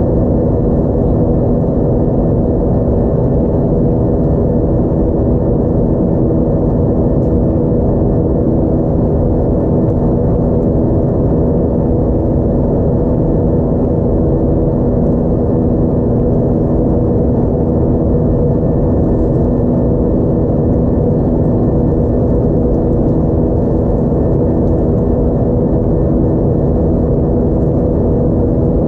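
Airbus A320's IAE V2500 jet engines heard from inside the passenger cabin: a loud, steady drone with several steady humming tones over a low rumble.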